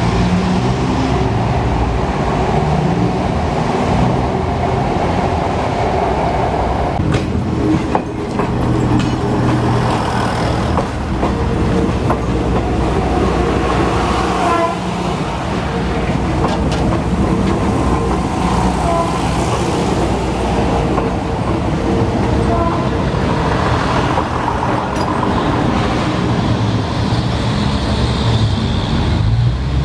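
Philippine National Railways diesel commuter train passing at close range, its wheels clacking over the rail joints.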